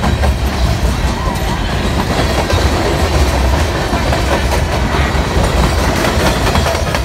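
Freight cars of a passing freight train rolling by close up: a steady low rumble with the wheels clicking over the rails.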